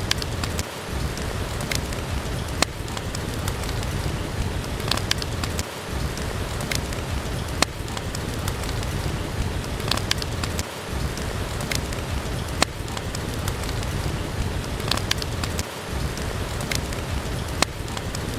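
Steady rain with a deep low rumble, dotted with scattered sharp crackling pops from a wood fire in a fireplace. The low rumble dips briefly about every five seconds.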